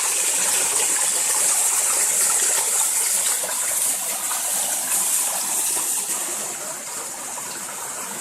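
Running water of the Yauzlar mountain river, a steady loud rush that drops slightly in level after about six seconds.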